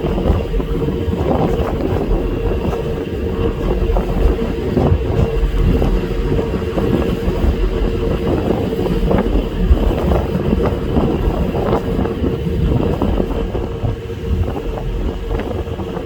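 Passenger ferry's engines running with a steady drone and a constant hum, while wind buffets the microphone on the open deck.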